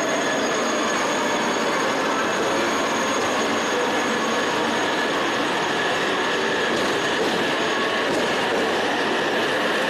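Shinkansen train at a station platform: a steady, even train noise with a thin high whine running through it.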